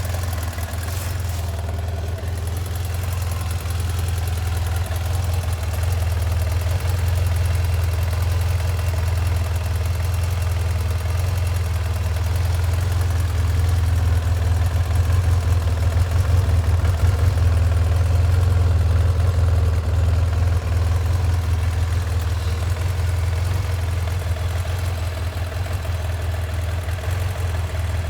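BMW F800ST's parallel-twin engine idling steadily through its original stock exhaust, a deep even note that rises slightly partway through and settles again.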